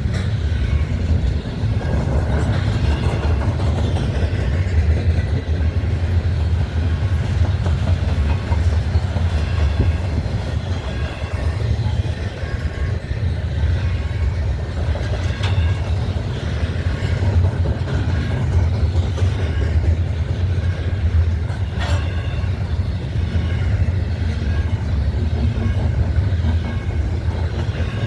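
Freight train of double-stacked container cars rolling past, with a steady low rumble and clatter of steel wheels on the rails and faint high wheel tones. A sharp click sounds once, past the middle.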